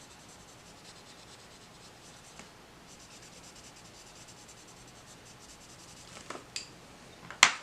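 Coloured pencil rubbing on paper in quick, light strokes. Near the end come a few sharp clicks, the loudest just before the end.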